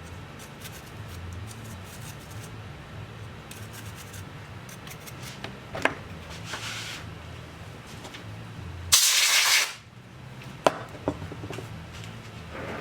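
Small rubbing and clicking sounds of hand work on a laptop being cleaned, over a low steady hum, with one loud short hiss about nine seconds in, like a blast of compressed air blowing out dust.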